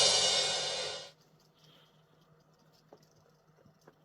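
The ringing tail of a crash cymbal from a drum-kit rimshot sting, fading and cutting off about a second in. After that, near silence with a faint low hum and two soft ticks.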